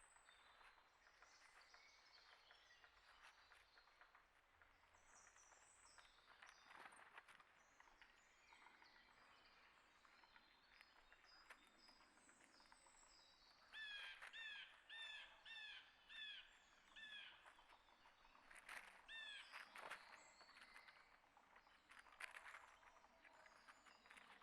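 Faint songbird chirps and calls. About halfway through, a bird gives a run of about six short, repeated, clearly pitched notes, then one more a little later.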